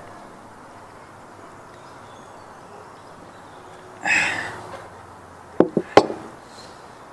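Quiet outdoor background with a short rustling burst about four seconds in, followed by three sharp knocks in quick succession.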